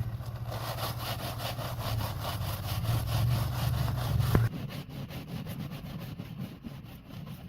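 Rapid rhythmic scraping strokes, about five a second, like hand sawing or scrubbing on metal, over a steady low machine hum that cuts off suddenly about four and a half seconds in.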